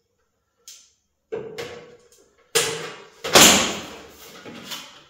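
A run of irregular sharp knocks and bangs, each ringing out briefly, starting faint and growing louder, the loudest about three and a half seconds in.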